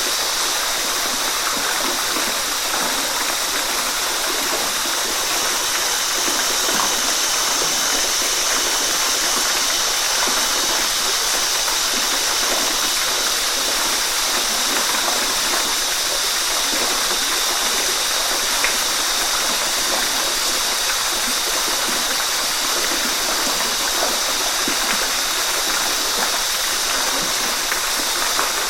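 Waterfall: steady, even rushing of falling water, a bright hiss with no let-up, broken only by the odd faint small splash.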